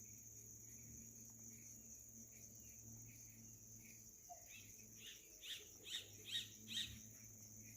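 A bird singing: faint repeated chirps at first, then about halfway in a run of about six louder, evenly spaced notes, two to three a second, that stop shortly before the end. A steady high-pitched drone sits under it throughout.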